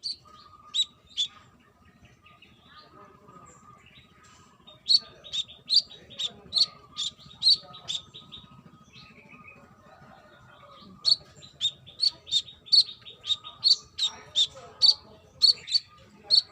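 Brown-throated sunbird calling: a sharp, high chirp repeated about two or three times a second. Two chirps come near the start, then a long run, a pause of about two seconds, and a second long run.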